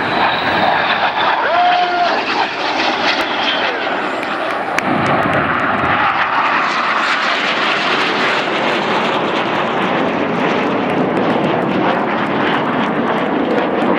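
Red Arrows' BAE Hawk T1 jets flying a formation manoeuvre overhead: loud, steady jet engine noise that swells a little about five seconds in.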